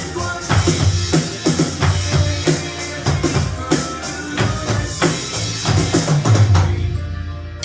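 Drum kit played along with a slow pop song's backing track in an instrumental passage, with a steady beat of kick, snare and cymbals. The drums stop about seven seconds in, leaving soft sustained keyboard notes from the track.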